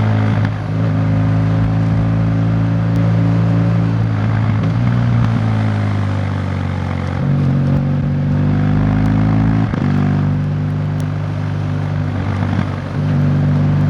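Vehicle engine running while travelling along a road, its pitch shifting in steps with brief dips in loudness, like gear changes, about half a second in and again twice near the end.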